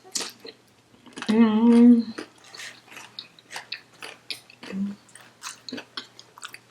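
A mouthful of Chipotle burrito bowl being chewed close to the microphone: a string of short, wet clicks, with one long wavering "mmm" of enjoyment about a second in.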